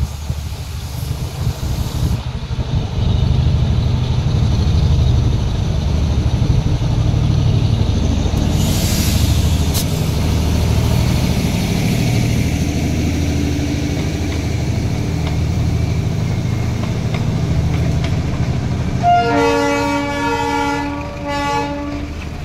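Darjeeling Himalayan Railway toy train passing close by with a steady low engine rumble and a brief hiss about nine seconds in; near the end a horn sounds in several short blasts.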